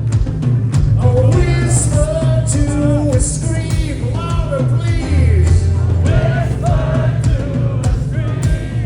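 Live rock band performance: a male lead vocal sings over electric guitars, bass and a drum kit with a steady beat.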